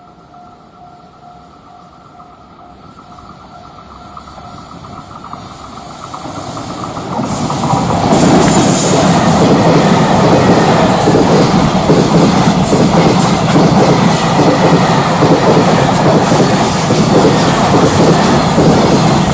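Freight train approaching, growing steadily louder over about eight seconds, then passing close with loud rolling wheel noise and the clickety-clack of container wagons over the rail joints.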